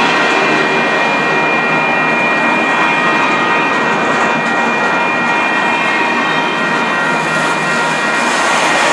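Empty freight cars rolling past close by: a steady clatter and rumble of wheels on rail, with a steady high-pitched whine running over it.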